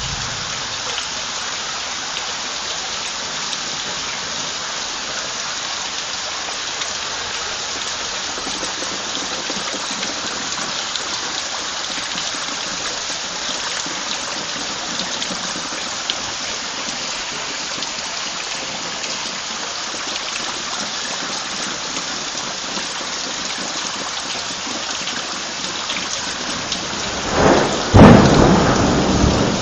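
Steady heavy rain from a thunderstorm, with a loud clap and rumble of thunder near the end.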